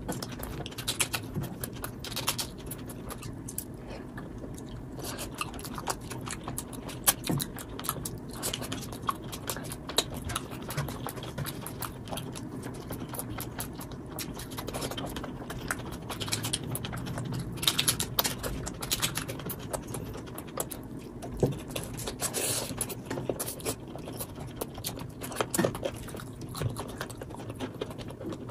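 Close-up eating sounds of a person eating rice and chicken curry by hand: chewing and smacking mouthfuls with many short wet clicks, sped up to double speed.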